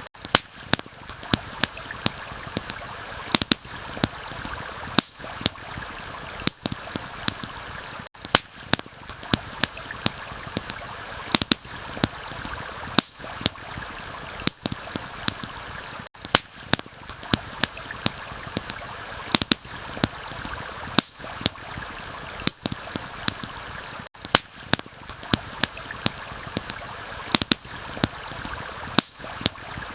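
Campfire crackling with sharp irregular pops, several a second, over the steady rush of a flowing stream.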